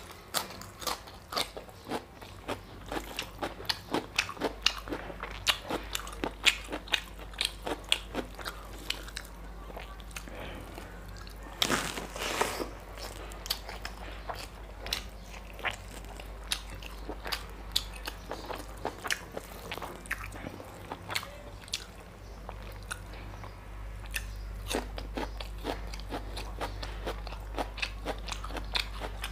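A man eating close to a clip-on microphone, biting into raw cucumber slices and chewing: a dense run of sharp crunches and clicks that thins out in the second half, with a longer noisy burst about twelve seconds in. A low steady hum runs underneath.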